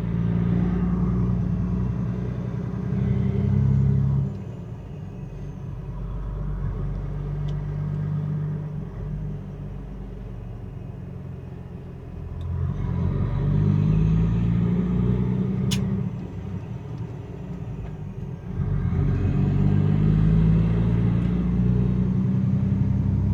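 Semi-truck diesel engine pulling away and accelerating through the gears: the engine note climbs, drops off at a shift about four seconds in, builds again and shifts once more near the end.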